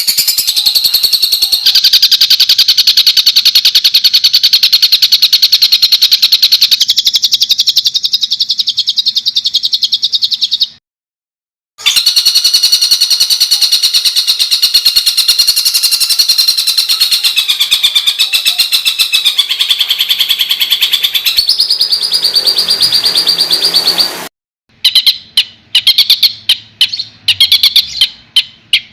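A songbird singing long, loud trills of very rapid, harsh repeated notes, the 'tembakan kasar' (harsh rapid-fire) phrases prized for training competition birds. The trills break off abruptly twice, about 11 and 24 seconds in, and after the second break come as shorter separate bursts.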